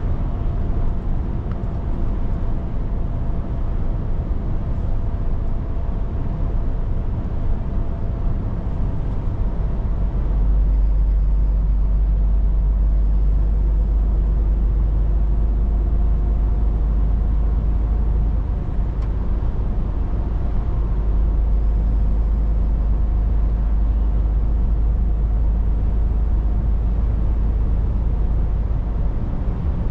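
Scania 500 S truck running along the road, a steady engine drone mixed with road and tyre noise. The deep low rumble grows louder about ten seconds in and stays up.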